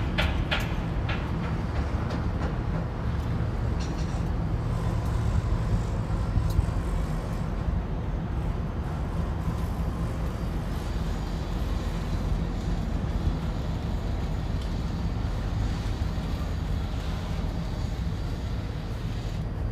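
Steady low rumble of a vehicle in motion, with a run of regular clicks in the first second.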